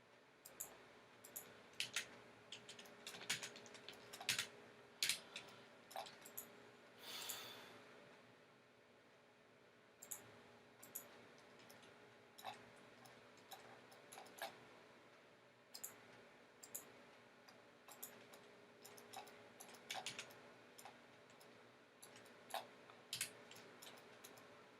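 Computer mouse clicking, faintly: irregular single clicks and quick pairs over a low steady hum, with one short scraping rustle about seven seconds in.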